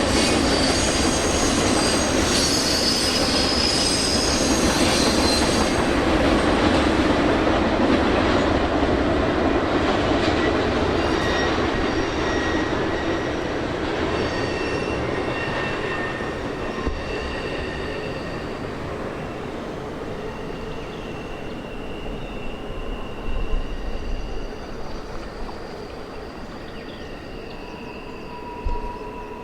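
A train rolling past, its steel wheels squealing against the rails in several high, steady tones over a continuous rumble. The rumble slowly fades over the second half.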